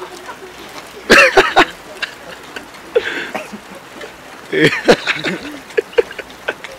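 Short muffled vocal sounds about a second in and again near five seconds, over a steady low hiss.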